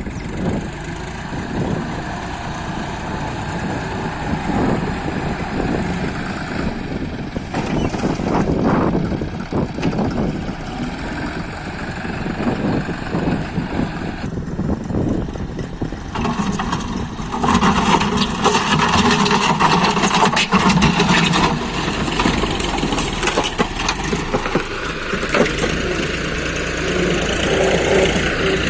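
John Deere 5310 tractor's three-cylinder diesel engine running, getting louder about two-thirds of the way through.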